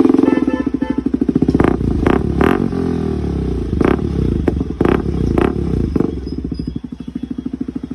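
KTM RC200's single-cylinder engine running through an aftermarket Akrapovic exhaust, with a steady, pulsing beat. About halfway through it briefly dips in pitch and picks back up. Several sharp cracks stand out above the engine.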